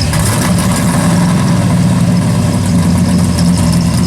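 Car engine idling loudly and steadily, close by.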